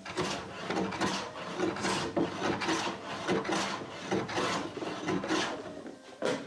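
Back-and-forth hand strokes rubbing an abrasive or waxing pad over a wooden door's surface, about one stroke a second, with a dry rasping scrape on each pass.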